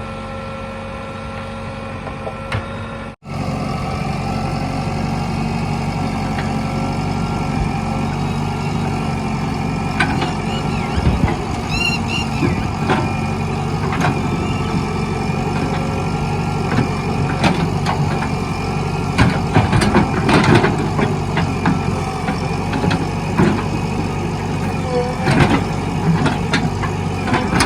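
Heavy diesel machinery engine running steadily, as on a backhoe loader or tractor at work, with a brief cut about three seconds in. Scattered sharp knocks and clanks come over it in the second half.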